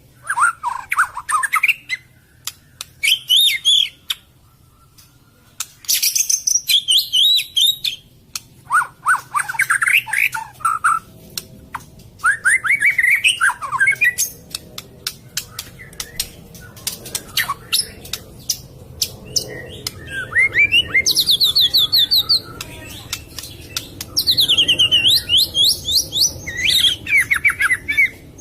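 White-rumped shama (murai batu) singing: a run of varied phrases of quick rising and falling trills and high whistled sweeps, broken by short pauses and peppered with sharp clicks. A masteran song for training other songbirds to copy.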